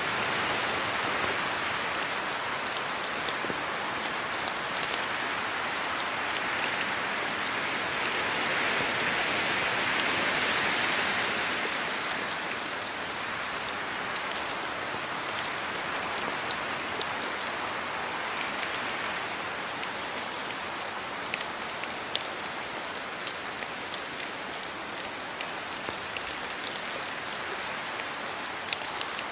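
Steady rain falling in a yard, with individual drops ticking sharply on surfaces throughout; the downpour swells briefly about a third of the way in.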